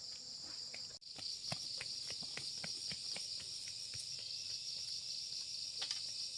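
Steady, high-pitched chorus of insects, with a row of faint light ticks at about four a second for a few seconds.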